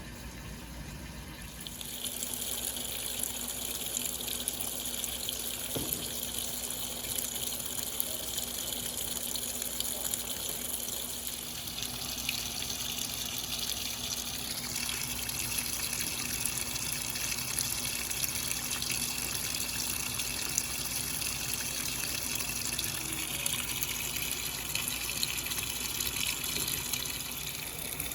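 Brastemp Clean 5 kg washing machine filling with water: a steady rush of water pouring into the tub, starting about two seconds in and running on evenly.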